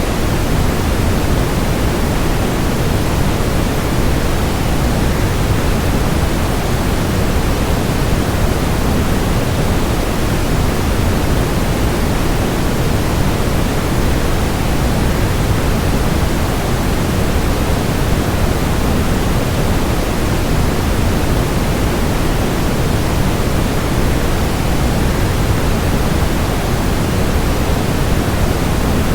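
Steady, even rushing of a waterfall, heavier in the low end, without any change or break.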